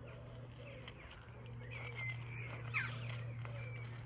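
Faint bird calls, a few short chirps and one falling call, over a steady low hum.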